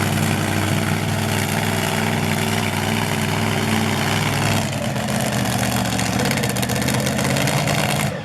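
Monster truck engine running loud and steady, dropping slightly in pitch about halfway through, then cutting off suddenly at the end.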